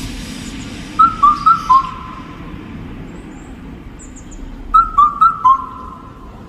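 A four-note whistle-like melody, played twice, with each note ringing on like an echo. Faint high bird chirps come between the phrases.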